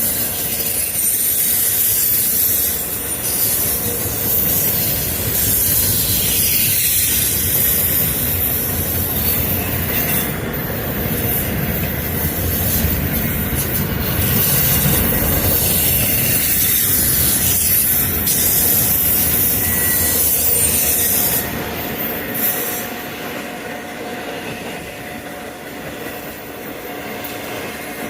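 Freight train cars rolling past on the rails, a steady rumble and rattle with faint wavering wheel squeal; the noise drops off a little past three-quarters of the way through.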